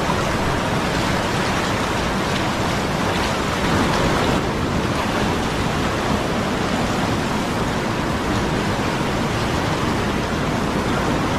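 Steady rush of fast-flowing river water, a constant noise that swells slightly about four seconds in.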